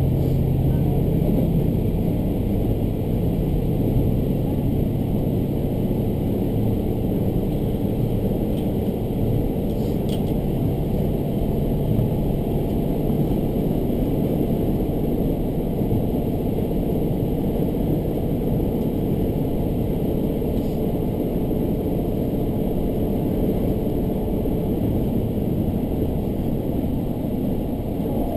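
Cabin noise of a diesel railcar running: a steady engine drone and rumble of the wheels on the rails. The engine's low hum is loudest for the first few seconds, then eases.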